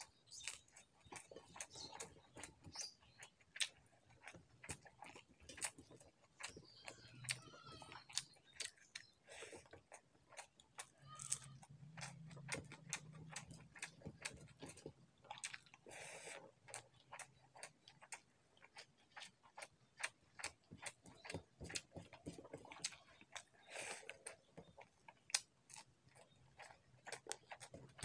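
Close-up eating sounds of rice, dal and fried potato eaten by hand: a continual irregular run of soft chewing clicks and lip smacks, with fingers mixing rice on a steel plate.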